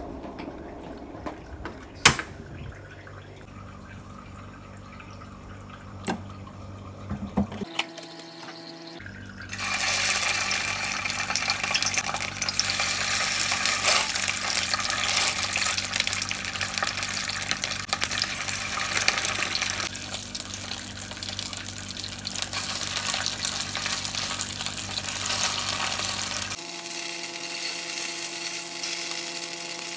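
Food sizzling in hot oil in a nonstick frying pan: a steady, dense hiss that starts about a third of the way in and drops away near the end. Before it there is a quieter stretch with a low hum and a few sharp clicks, one of them loud.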